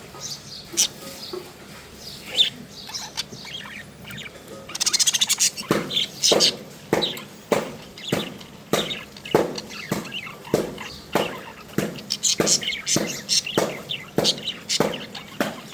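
A parrot calling: scattered short chirps at first, then about five seconds in a rapid rattling burst, followed by sharp calls repeated evenly a little under twice a second.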